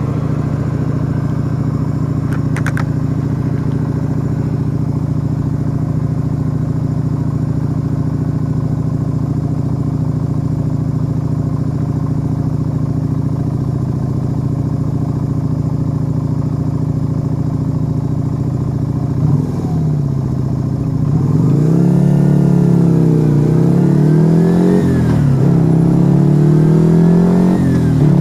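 Yamaha XV125 Virago's 125 cc V-twin engine through a Turbo Kit aftermarket exhaust, running at a steady pitch. From about twenty seconds in it gets louder and revs up and down several times, its pitch rising and falling.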